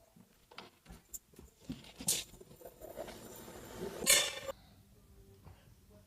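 Light clinks and taps of small hard objects, with a stretch of rustling noise in the middle that rises sharply twice.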